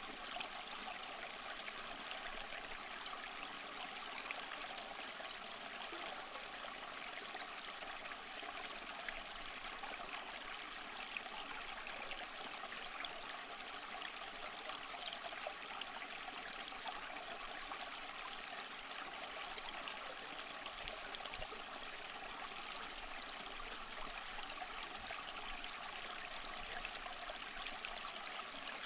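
A shallow stream running steadily, the water trickling and splashing in a constant, even flow.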